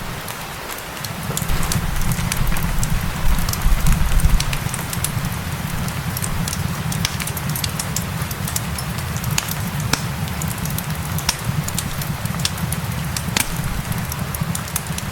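Wood fire crackling with frequent sharp pops over a steady hiss of rain and a low rumble. The rumble swells for a couple of seconds a few seconds in.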